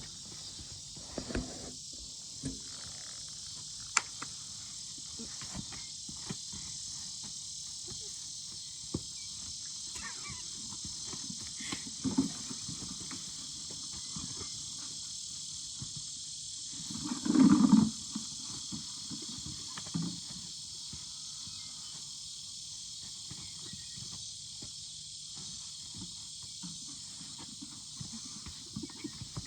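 Steady high-pitched chorus of crickets, with scattered small knocks and clicks and one louder, brief rustling sound about seventeen seconds in.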